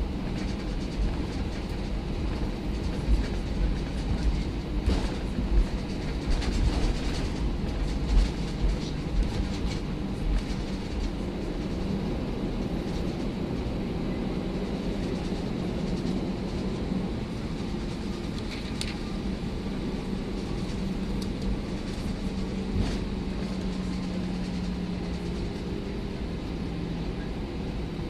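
Airbus A319 cabin noise heard from inside: a steady jet-engine hum and low rumble with uneven knocks and bumps from the rolling wheels, which ease after about ten seconds into a smoother, steady drone.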